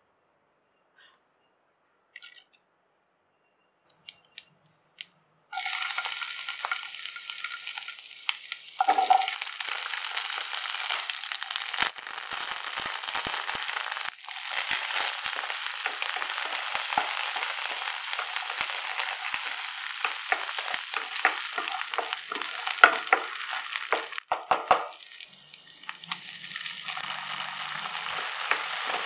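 A few light clicks, then about five seconds in a sudden loud sizzle as shallots, garlic and curry leaves fry in hot oil in a nonstick pan, with clicks and scrapes of a spatula stirring them. The sizzle dips briefly twice and picks up again.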